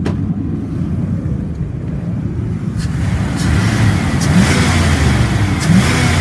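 1999 Dodge Ram 3500's 5.9 liter V8 idling, then revved twice in the second half, each rev a short rising pitch. The engine is warm after about 45 minutes of running and sounds healthy, revving up cleanly.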